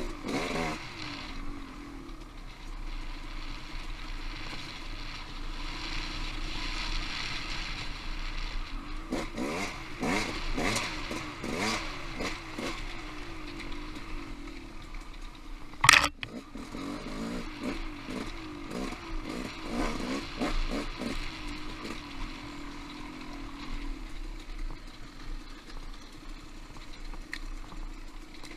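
Off-road motorcycle engine running through the ride, revving up and down in bursts, with short knocks and clatter over rough ground. One sharp, loud knock comes about halfway through.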